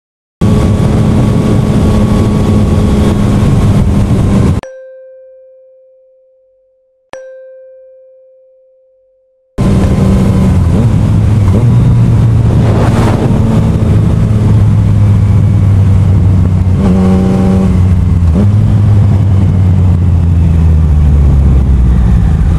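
Motorcycle running at road speed with heavy wind noise on the camera microphone, broken for about five seconds by two ringing chime tones that each fade away slowly.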